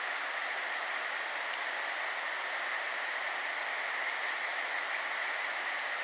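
Steady rushing of water, even and unbroken, with a few faint high clicks.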